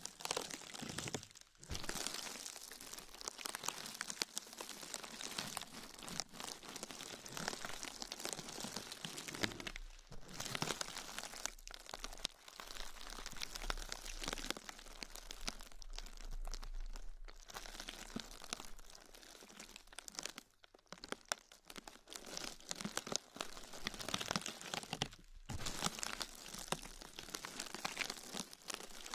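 Close-up crinkling and crackling from something being crumpled and handled, as an ASMR trigger, going on in long stretches with several short pauses.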